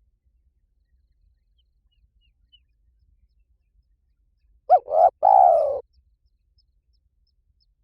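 Spotted dove cooing: one three-note phrase, two short coos and then a longer note that falls in pitch, about five seconds in.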